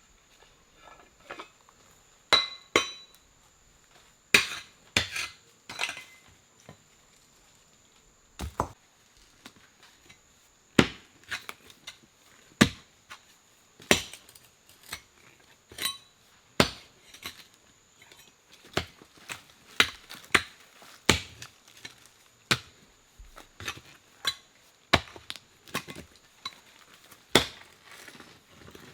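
Wood being chopped with a hand tool: a run of sharp, irregular strikes, roughly one a second, some much louder than others.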